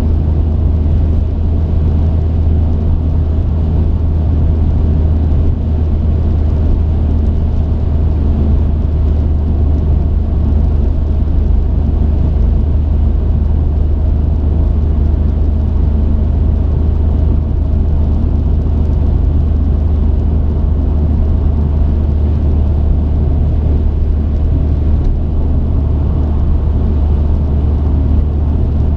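A truck's engine and road noise in a steady low drone while driving, with no change in speed or pitch.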